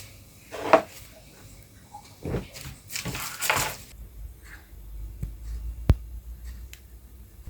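Scattered rustles and knocks of objects being handled in a quiet room, with one sharp click about six seconds in.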